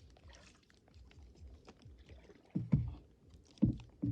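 Small paddle boat on the water: faint water noise and paddle splashes, with a few dull knocks against the boat in the second half.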